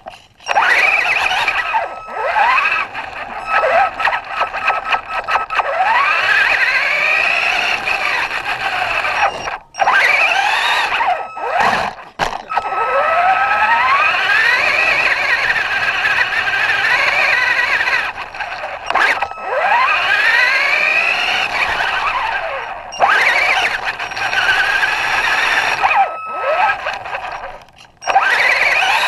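Traxxas radio-controlled truck's electric motor whining, rising in pitch again and again as the truck accelerates in short runs, with brief drop-outs between runs.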